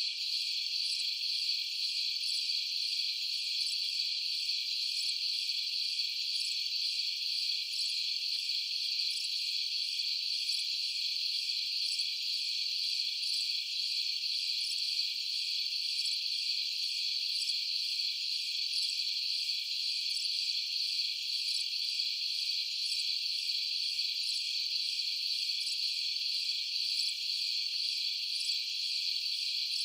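A steady, unbroken chorus of night insects, most likely crickets, trilling on a high pitch with nothing lower underneath.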